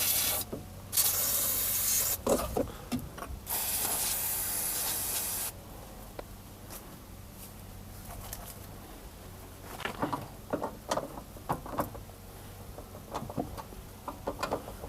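WD-40 aerosol can sprayed onto a seized wheel-arch liner bolt in three hissing bursts, the last about two seconds long. Later come scattered metal clicks and scrapes as a wrench works the stuck bolt loose.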